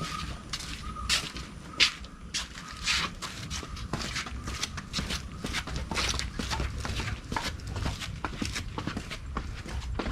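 Footsteps walking at about two steps a second, each step a crisp crunch, with a low rumble under them.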